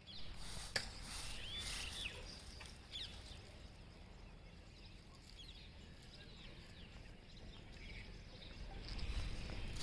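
Birds chirping over steady outdoor background noise, with a sharp click a little under a second in.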